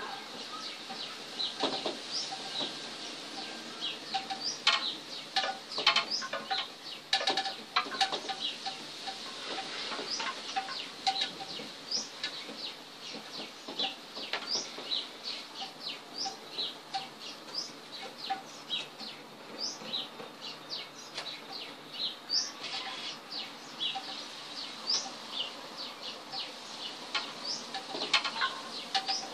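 Birds calling: many short, high chirps scattered throughout, with a run of lower, evenly repeated notes in the first half. Occasional sharp light taps.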